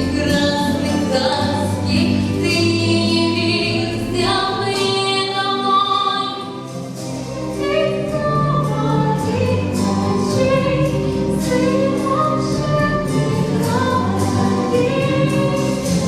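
Music with a choir singing long held notes; it briefly drops in loudness about six seconds in.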